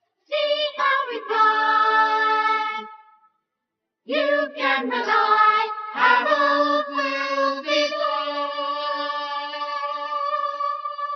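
Sung vocals with no bass or drums: a short phrase, about a second of silence, then a second phrase that ends in one long held note closing the song.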